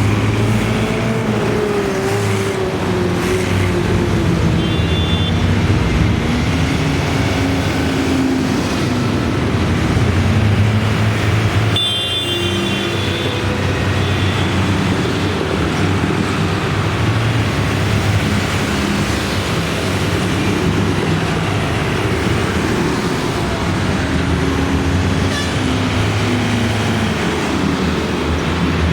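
Tractor engines running as a line of tractors drives past one after another, their low engine note rising and falling as each one goes by. Two short high-pitched tones sound briefly along the way.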